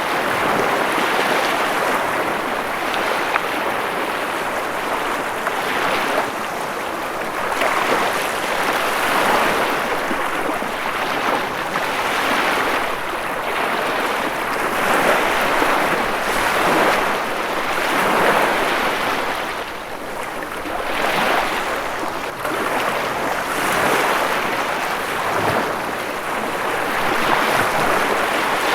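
Ocean waves breaking and washing on a shore, a continuous rushing that swells and eases every few seconds.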